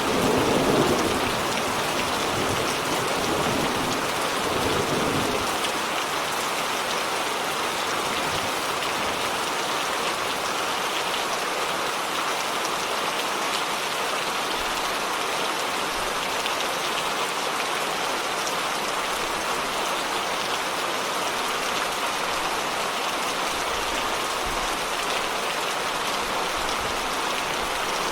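Steady rain falling, an even hiss of drops on surfaces. A low rumble of thunder dies away over the first five seconds or so.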